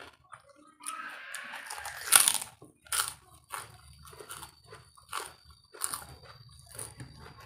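Close-up crunching and chewing of crunchy food, a series of sharp bites with the loudest crunch about two seconds in.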